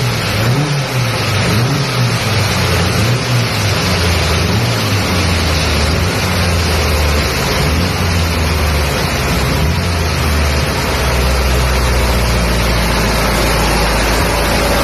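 VW 2110cc air-cooled flat-four engine running on a dyno, revved up and down in short blips for the first few seconds, then held at a steady speed.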